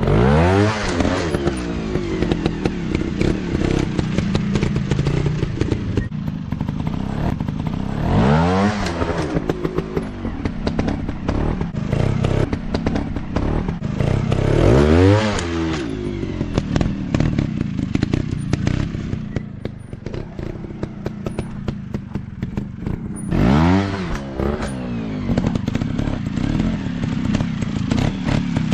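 Dirt bike engine running, with the throttle opened and closed four times, each a quick rise and fall in pitch lasting about a second. There is some clattering between the bursts.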